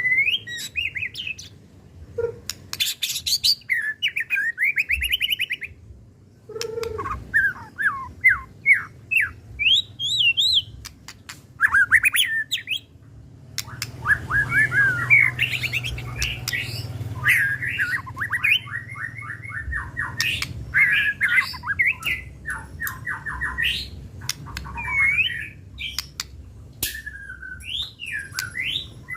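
White-rumped shama singing an agitated, varied song: quick whistled phrases, fast runs of repeated notes and sharp clicking notes, with short pauses between phrases.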